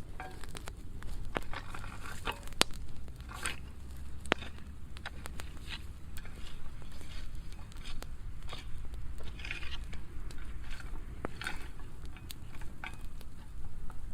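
Burning pile of dry pruning wood crackling, with scattered sharp pops over a low steady rumble.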